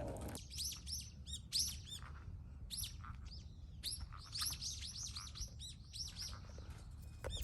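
Small birds chirping: a quick, uneven series of short high chirps, some overlapping, over a faint steady low hum.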